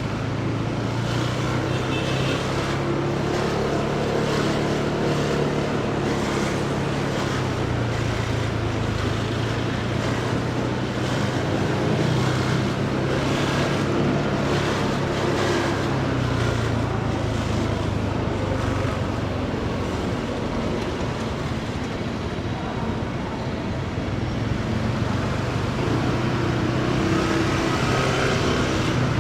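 Motorcycle engine running while riding, its pitch rising and falling with speed, over wind rush and the noise of surrounding road traffic.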